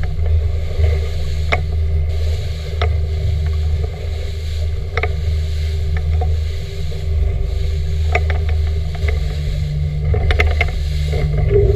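Boat motor running with a steady low drone, with scattered sharp knocks and clatters.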